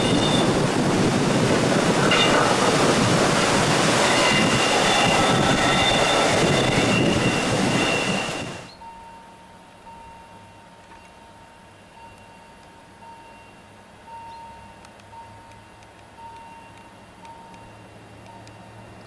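Rhaetian Railway passenger train running past, with loud rolling noise and high-pitched wheel squeal, cutting off suddenly about eight and a half seconds in. After that comes a quiet station with a faint beep repeating about once a second from a level-crossing warning signal.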